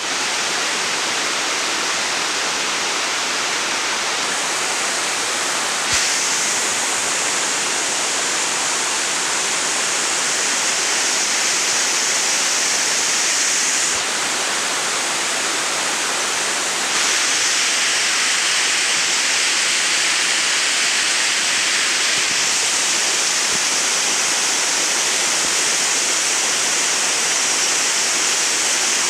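Waterfall: a steady, dense rush of falling water. Its tone and loudness shift abruptly several times, a little louder in the second half.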